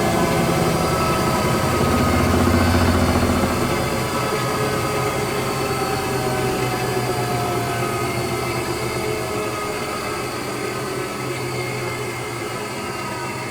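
Electrolux Wascator W355H commercial washing machine running, its motor whine slowly falling in pitch and level. A deep hum underneath drops away about three and a half seconds in.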